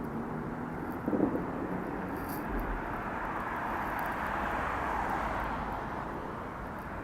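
Steady road-traffic noise on a bridge, swelling as a vehicle passes near the middle, with one short dull thump about a second in.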